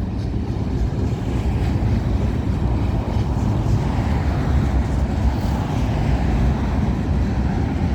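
Freight train rolling past, a steady rumble of its cars on the rails.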